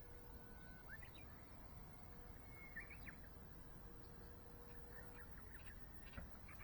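Faint, scattered bird chirps against a quiet outdoor background, with a brief cluster of chirps near the end.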